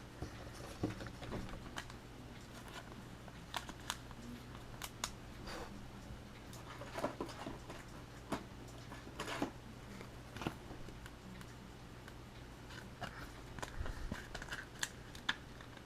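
Baseball trading cards being handled and flipped through: faint, scattered clicks and rustles of card stock over a low steady hum.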